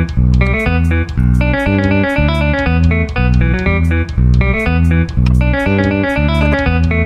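Instrumental background music led by plucked guitar over a bass line, with a steady beat.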